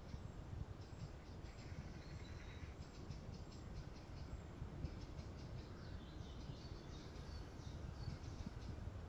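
Faint outdoor ambience: small birds chirping now and then, with a clutch of higher chirps about two seconds in and again around six to eight seconds, over a low steady rumble.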